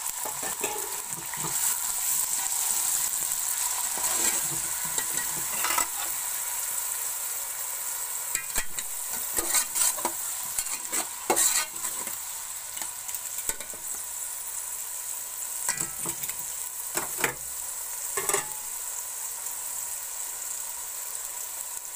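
Chopped tomatoes sizzling in hot oil and garlic paste in a metal pot, stirred with a perforated metal spoon that scrapes against the pot every few seconds.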